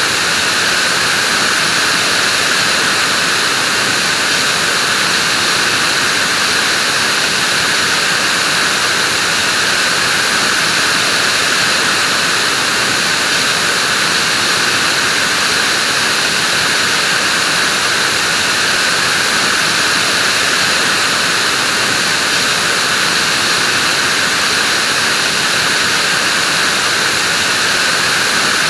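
Vacuum cleaner running steadily: a constant rushing hiss with a high-pitched whine, unchanging in level.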